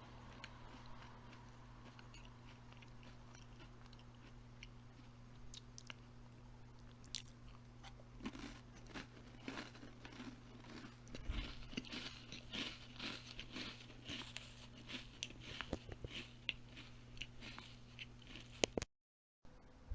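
A person biting and chewing crunchy food. The crunching grows dense about eight seconds in and cuts off abruptly near the end, over a steady low hum.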